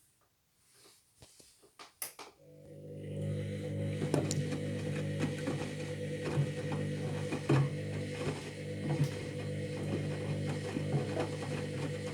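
Candy Grand'O Vita washing machine in its pre-wash: after a couple of seconds of quiet with a few faint clicks, a steady motor hum comes in, with water splashing and knocking in the drum. This is the machine spraying water through the light load, a spray the owner likens to a 'power stream'.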